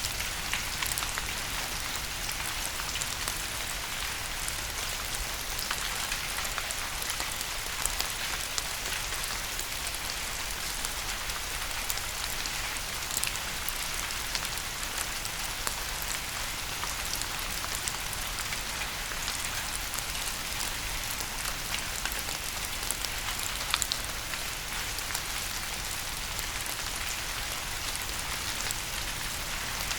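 Steady rain, an even hiss with many separate drops ticking on a surface.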